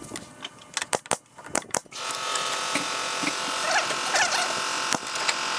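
A few sharp clicks and knocks, then about two seconds in a power tool starts and runs steadily with a whine.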